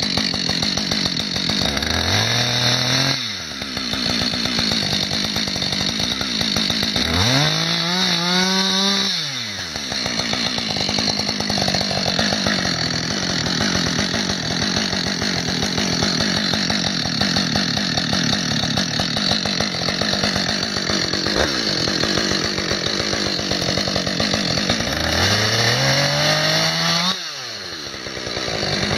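Two-stroke chainsaw cutting into a small tree trunk, running steadily at high revs. Three times, about 3 s, 9 s and 27 s in, the engine note rises, then drops away briefly before the saw goes back to full speed.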